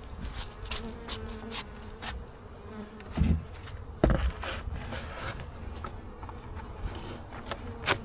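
Honeybees buzzing around an open hive, with a wavering hum as bees fly close. Scattered light clicks, and two louder knocks about three and four seconds in.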